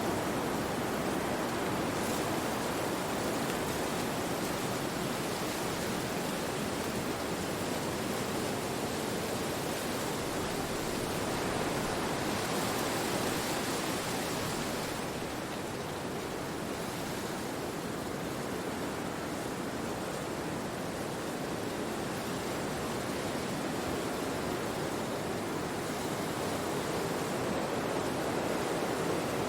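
Wind rushing through forest trees: a steady rushing hiss that swells a little about halfway through, then eases slightly.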